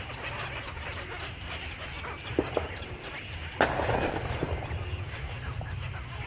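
Many small birds chirping and twittering over a steady low rumble, with a few sharp clicks and one louder knock about three and a half seconds in.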